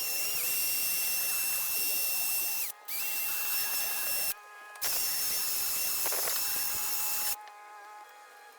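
Handheld power tool with a whining electric motor running in long bursts on metal work. It stops briefly twice, then cuts off near the end, leaving faint background music.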